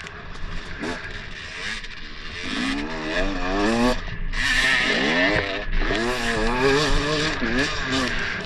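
Dirt bike engine being ridden off-road, quieter at first, then revving up and down repeatedly as the throttle is opened and closed, under a steady hiss.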